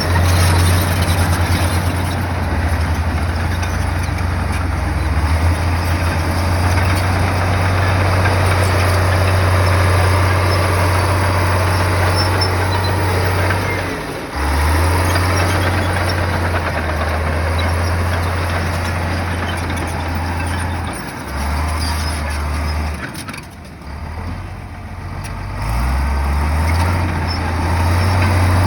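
Heavy bulldozer's diesel engine running under load, a deep steady rumble that dips briefly about halfway and eases off for a couple of seconds near the end before picking up again.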